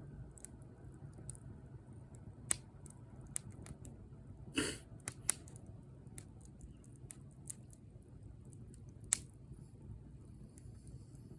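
Wood fire burning: a low steady rumble with scattered sharp crackles and pops, and one longer, louder crackle near the middle.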